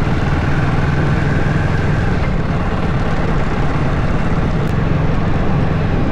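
Steady rumble of a vehicle driving along a paved road: engine and road noise, even and unbroken.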